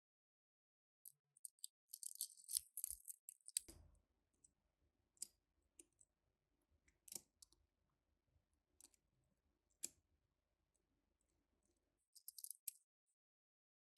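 Quiet handling of toy-car packaging: a burst of crisp packaging rustle about two seconds in and a shorter one near the end, with single sharp clicks in between.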